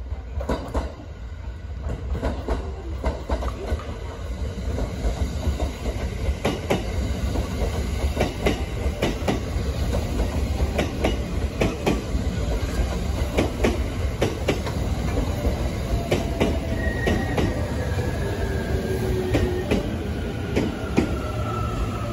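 A JR West 683 series electric express train passes close by, with a steady rumble and a rapid run of sharp clacks from its wheels. It grows louder over the first few seconds. In the last few seconds a high whine slowly falls in pitch.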